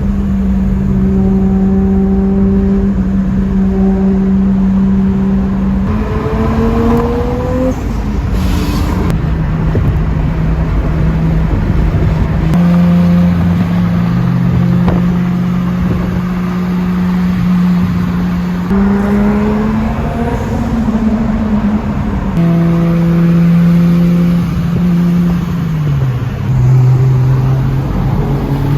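Toyota Supra MK4's turbocharged straight-six running under load while driving, its note held steady for stretches then rising and dropping in steps and glides with throttle and gear changes.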